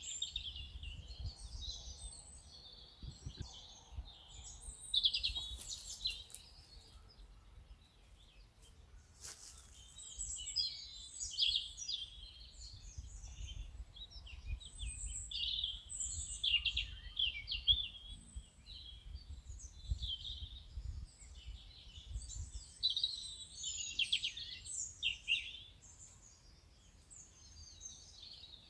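A chorus of songbirds chirping and singing, many short high calls overlapping without a break, over a faint low rumble.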